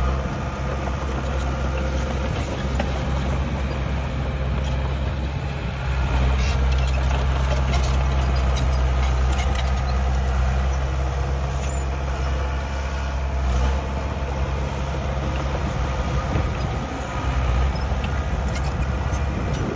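Diesel engine of heavy earthmoving machinery running steadily, swelling louder for several seconds in the middle, with scattered metallic clanks and clicks.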